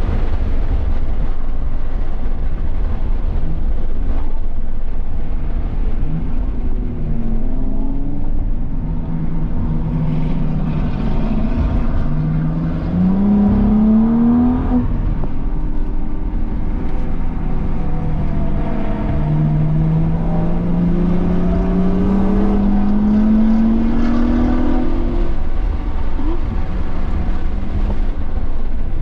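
2017 BMW M240i's turbocharged 3.0-litre inline-six at full throttle on track, its pitch climbing in long pulls through the revs and dropping away between them, over a steady heavy rumble of road and wind noise.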